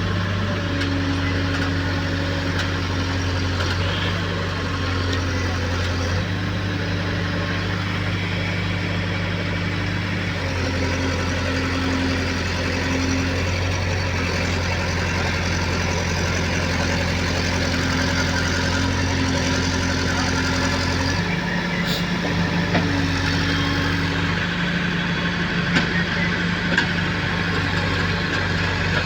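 Tractor engine running steadily, its note shifting about ten seconds in and again about two-thirds of the way through, with a few light knocks near the end.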